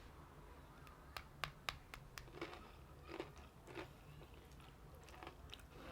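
A person chewing crunchy fried chicken close to the mic. Several sharp crisp crunches come in quick succession about a second in, then softer chewing.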